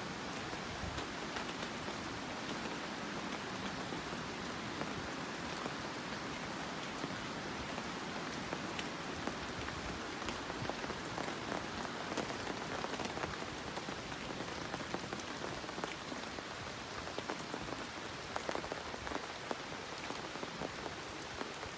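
Steady rain falling, a continuous hiss dotted with many small sharp ticks of single drops.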